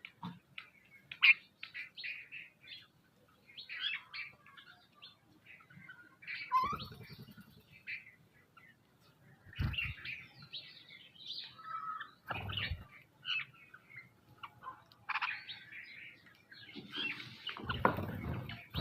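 Several small birds chirping and calling in quick short bursts, overlapping one another, with a few brief low thumps or rustles in between and a longer rustle near the end.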